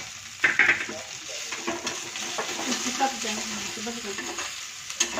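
Pasta pieces sizzling as they fry lightly in ghee in a kadhai, while a metal slotted spoon scrapes and clinks against the pan as they are turned and lifted out. A louder clatter comes about half a second in.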